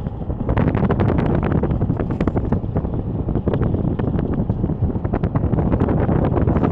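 Wind rumbling and buffeting against the microphone, with constant crackling.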